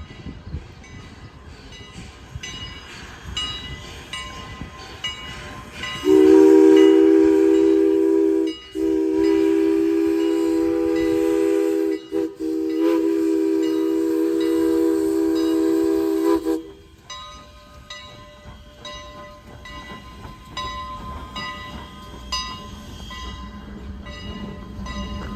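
A locomotive's multi-note chime sounds the grade-crossing signal: long, long, short, long, loud over everything else. Before and after it, a passing train's wheels click regularly over the rail joints, and a low rumble builds near the end.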